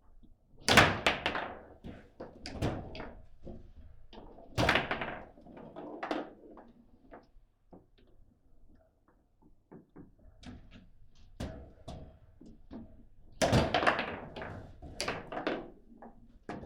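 Table football play: sharp knocks and bangs of the ball being struck by the rod figures and rods slamming, in quick flurries about a second in, near five seconds and again from about thirteen seconds, with lighter taps in between.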